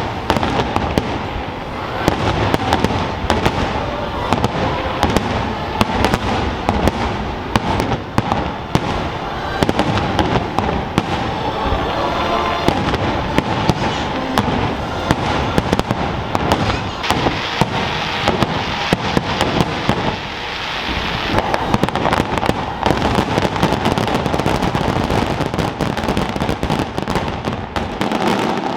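Fireworks show with shells bursting in rapid succession, a dense run of bangs and crackles that eases briefly about two-thirds of the way through.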